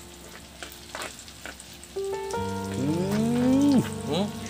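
Chicken and spices sizzling faintly in a frying pan, with scattered soft clicks. About two seconds in, louder background music comes in over it, its notes sliding up and down.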